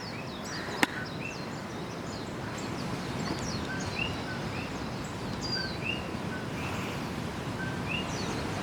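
Small birds chirping, short arched notes repeated about once a second with other higher chirps between, over a steady background rush; a single sharp click about a second in.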